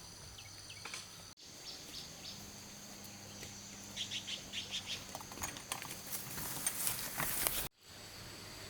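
Outdoor rural ambience with a steady high-pitched insect drone and a quick run of short clicks or chirps in the second half; the sound cuts out abruptly twice.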